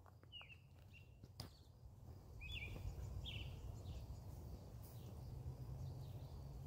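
Small birds chirping in short calls every second or so, over a steady low rumble, with a single sharp click about a second and a half in.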